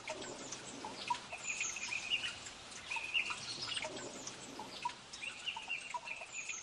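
Birds chirping: short twittering calls repeated about once a second, with thinner, higher calls in between.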